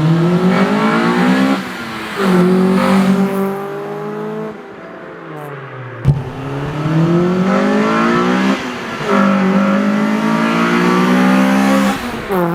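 Honda Civic EK4's B16 VTEC four-cylinder, breathing through a full custom exhaust and Mugen headers, pulling hard past: the engine note climbs, falls at an upshift, then holds steady. This happens twice, with a brief sharp click between the two runs.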